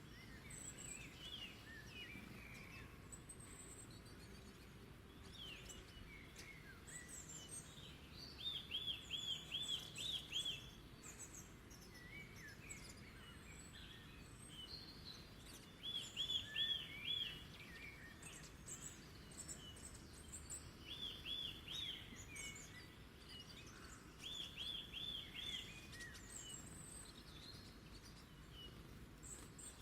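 Wild birds singing over a faint outdoor background hiss: one bird repeats a quick phrase of five or six identical notes every few seconds, while other birds add scattered high chirps.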